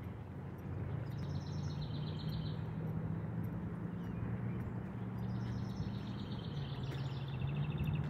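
A songbird sings two trilled phrases of rapid repeated notes that step down in pitch, about a second in and again about five seconds in. Under them runs a steady low hum.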